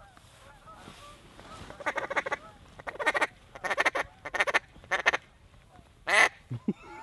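Waterfowl quacking and honking in quick runs of short notes: several bursts between about two and five seconds in, then one more call near the end.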